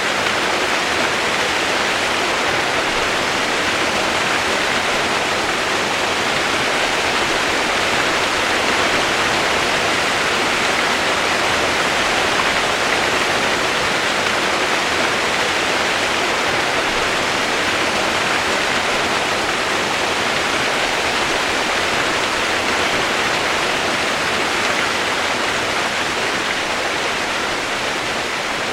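Steady rain-sound white noise: an even, unchanging hiss like heavy rainfall, with no separate drops, thunder or other events standing out.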